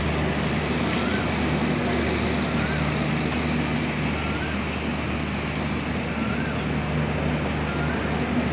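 LHB passenger coaches of an express train rolling past along a station platform: a steady rumble with a low hum underneath.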